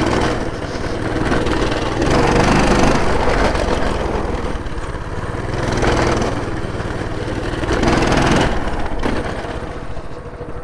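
Coleman minibike's small single-cylinder engine running while riding, the throttle rising and falling every couple of seconds and easing off near the end.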